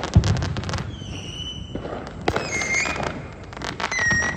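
Fireworks popping and crackling in rapid bursts, with a heavy bang just after the start and a few short high whistling tones.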